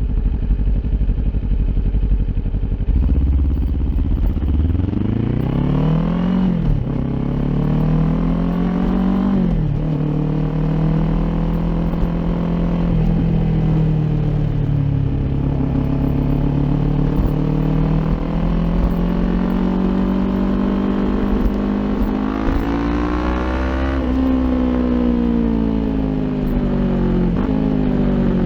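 Kawasaki Ninja 400's parallel-twin engine through an Akrapovic aftermarket exhaust, riding. It revs up through two gears, dropping at each shift about six and nine seconds in, and holds a steady cruise. It revs up again later, then slows with falling revs and a few short blips near the end.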